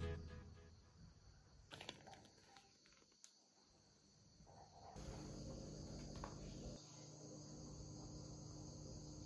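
Near silence: faint room tone, with a couple of light clicks about two seconds in and a faint steady hum from about five seconds in.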